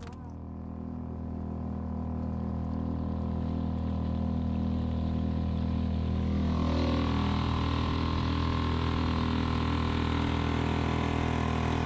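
A boat's engine running steadily, growing louder over the first few seconds and fuller from about halfway through.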